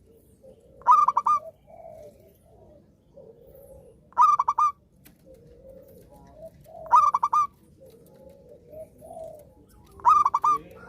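Perkutut (zebra dove) singing its rhythmic, bubbling cooing song: four loud phrases about three seconds apart, each a quick run of notes. Softer, lower sounds fill the gaps between phrases.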